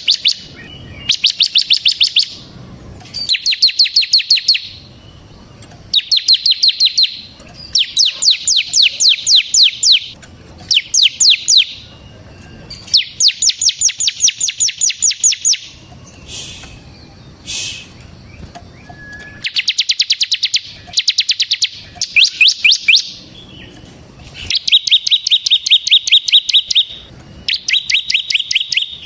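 Ciblek (bar-winged prinia) singing in its rapid rattling 'ngebren' style: repeated bursts of quick, high, evenly spaced notes, each phrase lasting one to two seconds with short pauses between. A couple of short single calls come in the middle.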